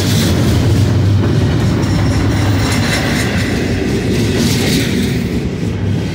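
Double-stack container well cars of a freight train rolling past close by: a steady, loud rumble and rattle of steel wheels on the rails.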